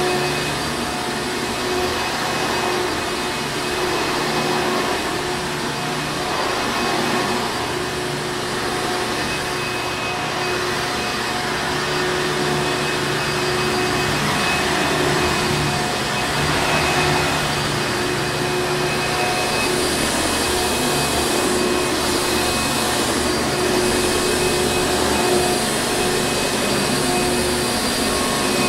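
Hoover Encore Supreme vacuum cleaner running steadily: a continuous motor whir and rush of air with a faint steady hum, its level gently swelling and easing.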